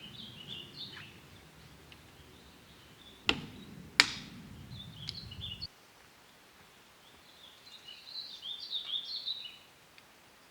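Birds chirping and singing in a forest, in two bouts, the second near the end. A bit over three seconds in come two sharp clicks, the loudest sounds.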